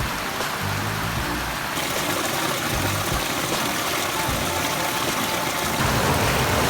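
Steady rushing of a forest stream, an even wash of water noise.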